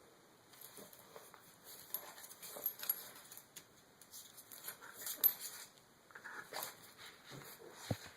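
A dog rubbing and rolling over paper perfume samples: faint, irregular rustles and scuffs.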